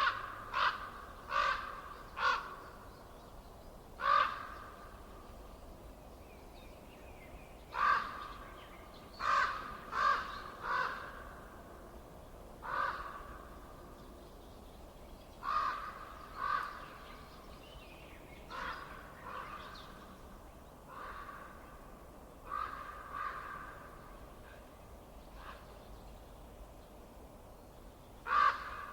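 A bird calling: short repeated calls, often two to four in quick succession, with pauses of a few seconds between runs, over a faint steady background.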